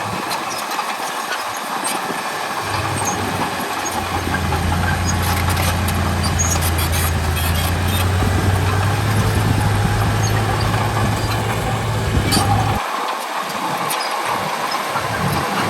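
Heavy diesel earthmoving machinery working: a low, steady engine drone over a broad rumble of noise, with a few short knocks. The drone swells about four seconds in and drops out abruptly near the end.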